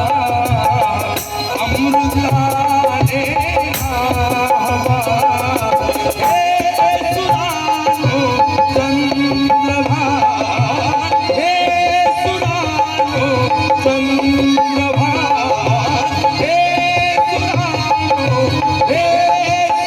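Indian song accompaniment: tabla playing a steady rhythm under a sustained melody line.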